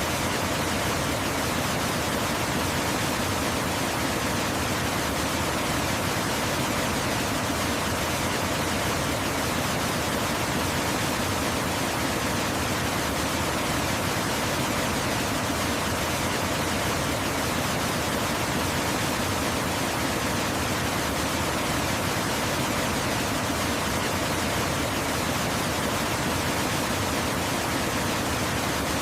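Waterfall: a steady rush of falling water, an even hiss across low and high pitches that does not change.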